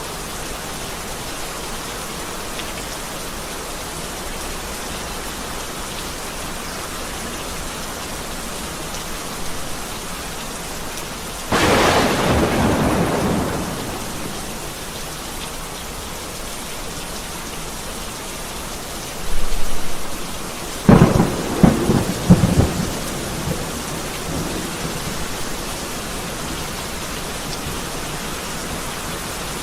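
Heavy rain falling steadily, with two thunderclaps: a sudden crack about a third of the way in that rumbles away over a couple of seconds, and a louder clap of several sharp cracks in quick succession about two-thirds of the way through.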